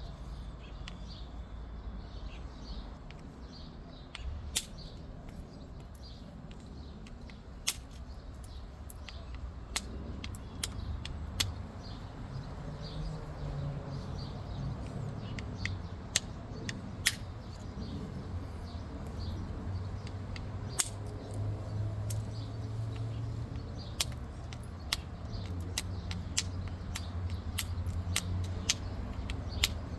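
Obsidian being pressure-flaked into a small bird point: sharp, irregular clicks and ticks as small flakes snap off the edge, over a low steady hum.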